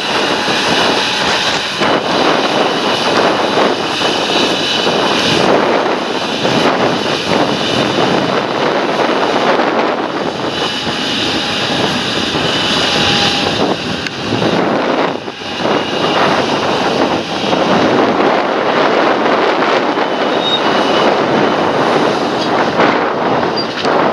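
John Deere tractor working in the field, its engine and the implement making a loud, steady noise, with a thin high whine coming and going.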